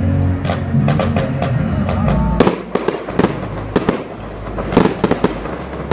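Fireworks going off in a rapid, irregular series of sharp bangs. Music with a heavy bass plays under them and drops away about two and a half seconds in.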